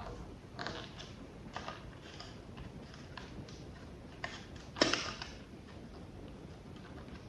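Light clicks and knocks from small parts being handled at the workbench, coming at irregular intervals, the loudest about five seconds in.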